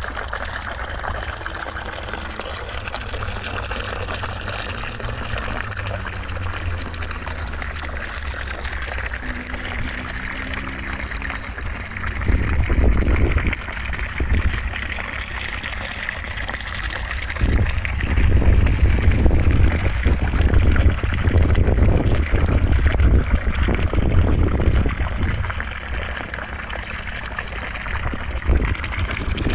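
Continuous white-noise track: a steady rushing hiss, much like running water, with a low rumble underneath that swells briefly about twelve seconds in and again from about eighteen seconds.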